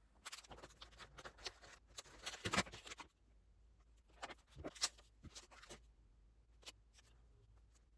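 Paper and stationery handled at a desk: a burst of rustling and light clicks, then scattered single taps and clicks.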